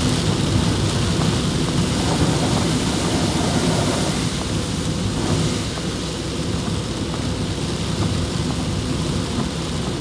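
Heavy rain pouring down, a steady hiss over a continuous low rumble.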